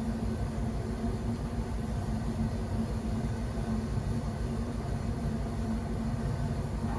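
Ship under way: steady low drone of its engine and machinery, with a constant hum that does not change.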